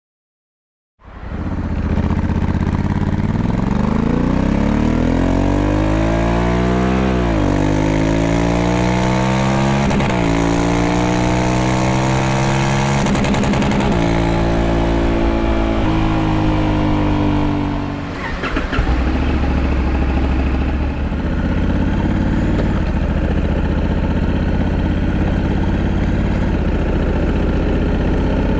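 Honda Africa Twin 1100's parallel-twin engine accelerating through the gears: the engine note climbs and drops sharply at each of three upshifts, then settles into a steadier cruise with a brief dip past halfway.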